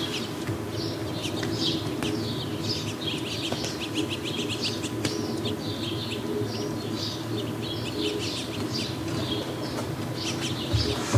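Songbirds chirping and chattering in quick, dense runs of calls over a steady low hum, with a short low thump near the end.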